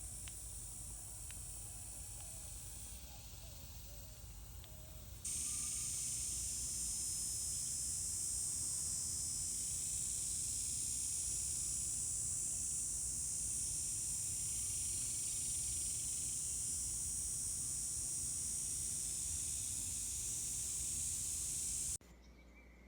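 Steady high-pitched hiss, stepping up to a louder level about five seconds in and cutting off sharply near the end.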